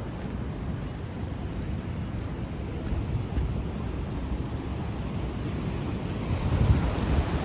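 Wind blowing across the microphone over the wash of ocean surf, a steady low rumble that swells in gusts about three seconds in and again near the end.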